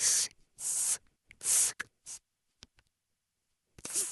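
Short breathy hisses of air blown through a small bird-call whistle held in the mouth, five puffs with no whistle tone sounding: the call is not yet working.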